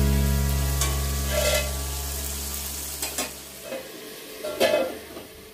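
Potato pieces sizzling as they fry in oil in an iron kadai, while a steel spatula stirs and scrapes the pan in a few short strokes. Near the end a sharper metal clink as a steel lid is handled over the pan.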